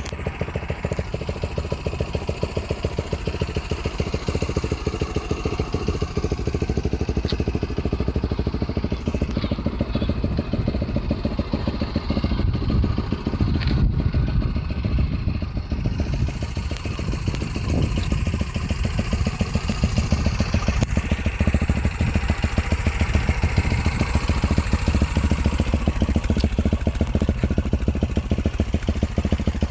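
Lexmoto LXS motorcycle engine running steadily through an aftermarket Lextek stainless exhaust, with an even, rapid exhaust pulse.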